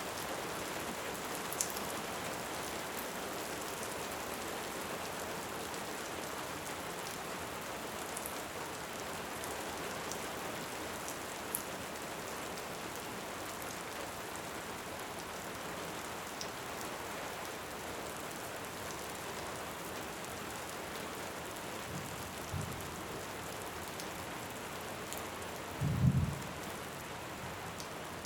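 Steady rain hissing, with a few sharp crackles from a wood fire. A couple of soft low thumps of distant thunder come near the end, followed by a short, louder low rumble of thunder.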